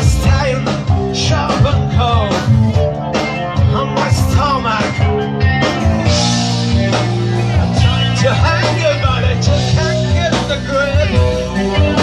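Rock band playing live, an instrumental passage with a steady drum beat, bass and bending guitar lines.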